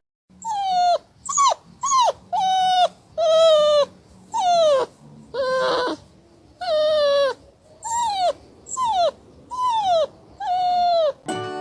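A dog whining in a run of about a dozen high, short cries, each sliding down in pitch, roughly one a second.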